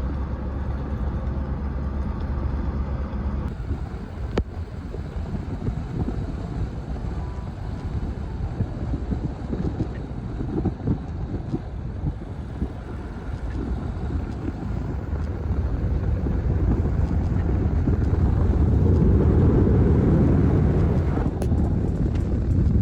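A vehicle driving, with steady low rumbling road and wind noise that grows louder near the end.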